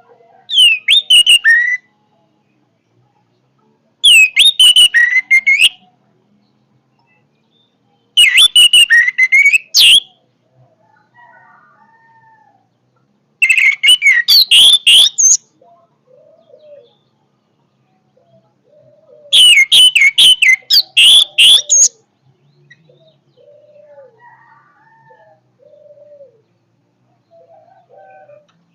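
Orange-headed thrush (anis merah) singing: five loud bursts of rapid, varied whistled phrases, each about two seconds long and a few seconds apart.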